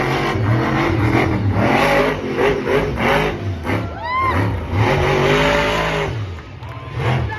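Monster truck engine revving hard, its pitch rising and falling again and again as the throttle is worked. A brief high squeal rises and falls about four seconds in.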